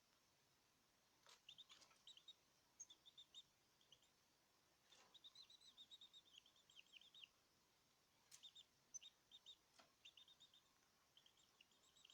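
Small caged birds chirping faintly, short high notes in quick runs separated by brief pauses.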